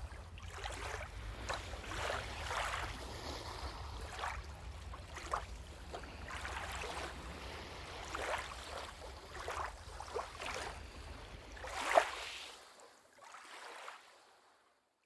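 Footsteps crunching on a forest trail, roughly one a second, over a low rumble of wind on the microphone. The rumble stops about three seconds from the end and the sound fades out.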